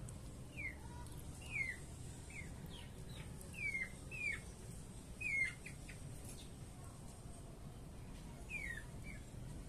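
Small birds chirping: about ten short, high, downward-sliding chirps in loose clusters, with a gap of a couple of seconds before two more near the end, over a steady low background rumble.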